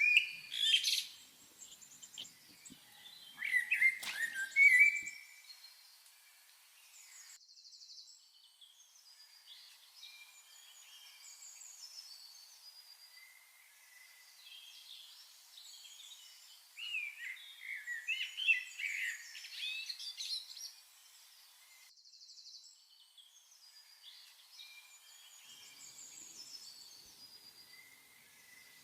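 Wild birds chirping and singing, several short high calls overlapping, with louder bursts of song near the start, about four seconds in, and again around seventeen to twenty seconds in.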